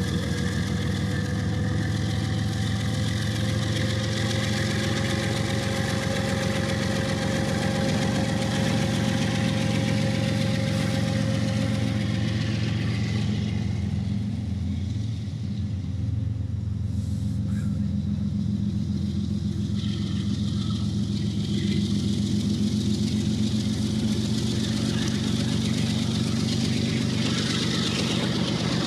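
Freight train passing: diesel locomotive engines running with a steady low drone while the steel wheels roll on the rails, with a thin steady tone in the first half and a brief dip in loudness about halfway through.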